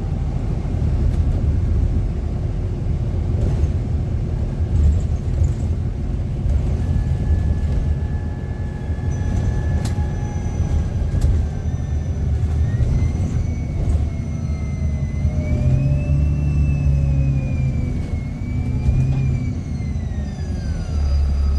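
Bus engine heard from inside the passenger saloon: a steady deep rumble. From about a third of the way in, a thin whine rises and falls in pitch over it, engine noise fed back through the on-board speaker.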